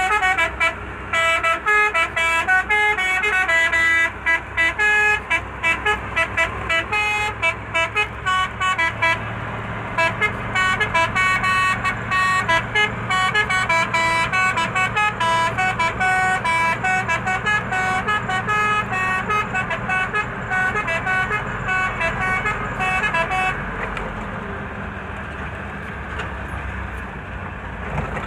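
Truck's musical horn played as an instrument, a quick run of separate pitched notes making up a melody, with the truck's engine running underneath. About four seconds before the end the notes stop and only the engine rumble remains.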